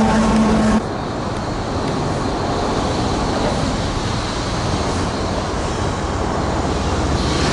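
Freight train rolling past with a steady rumble and rush of wheels on rail. The sound changes abruptly just under a second in, and an even noise carries on after.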